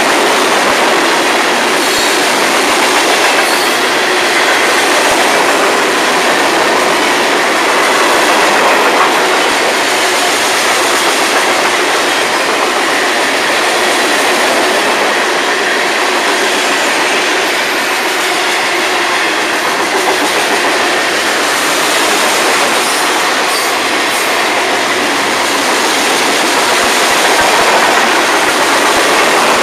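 Freight cars of a long Florida East Coast Railway train, a mixed string of tank cars, boxcars and hoppers, rolling past close by: loud, steady sound of steel wheels running on the rails.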